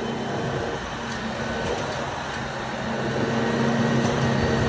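Garbage truck engine running with a steady low hum that grows gradually louder.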